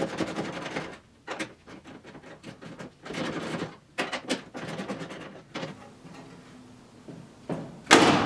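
Metal clicks, knocks and scraping as the fixing nuts are worked off the studs and the TR6's metal dash panel is shifted and tilted forward, with a loud short scrape near the end.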